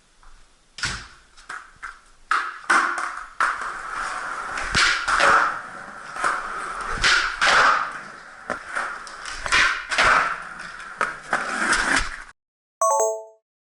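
Skateboard riding: the wheels roll rough over pavement with a steady grinding rumble, broken by a series of sharp clacks and knocks from the board. The noise stops abruptly a little past twelve seconds, followed by a short electronic beep.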